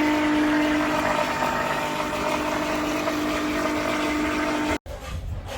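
A steady mechanical hum with a few held tones over a background rush. It cuts off abruptly near the end, leaving a quieter low rumble.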